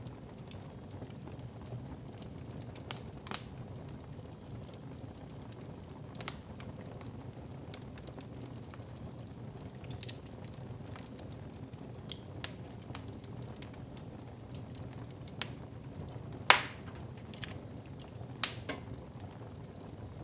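Wood fire crackling in a fireplace over a low steady rumble, with scattered sharp pops at irregular intervals, the loudest about two thirds of the way through.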